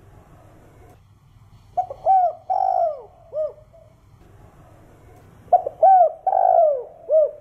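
Spotted dove cooing: two song phrases a few seconds apart, each a couple of short coos, a longer drawn-out coo and a short closing coo.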